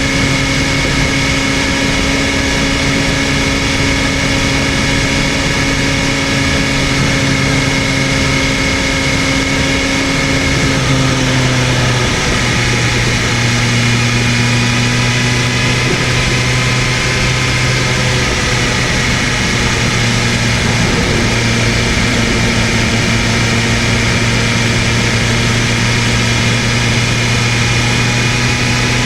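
BMW M1000RR's inline-four engine running at a steady, moderate speed while riding, over a constant rush of wind and road noise. About eleven seconds in, the engine note drops slightly and then holds steady again.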